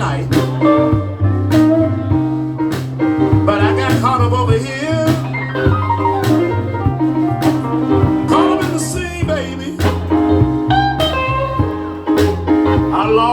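Band playing a blues, with a guitar bending notes over a steady bass line and evenly spaced drum hits, and some singing.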